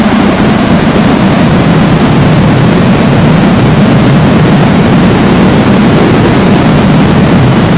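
An engine running steadily under a loud, even rushing noise, as from a vehicle or boat moving at speed.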